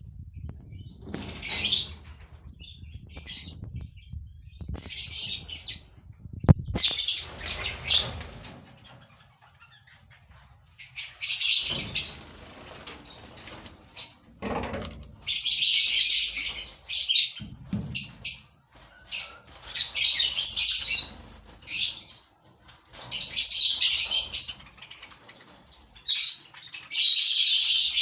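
A colony of lovebirds chirping and chattering in repeated shrill bursts of about a second each, coming more often in the second half. There is one sharp knock about a quarter of the way in.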